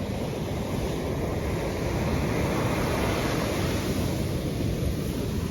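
Strong surf breaking and washing up the beach, with wind buffeting the microphone.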